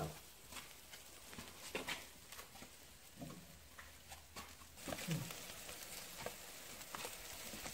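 Fish sizzling faintly on a grill grate over glowing embers, with scattered sharp crackles and pops.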